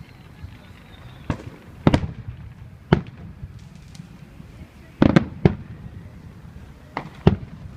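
Fireworks shells bursting in the air: about eight sharp booms at uneven intervals, several in quick pairs or triplets, loudest a little past the middle.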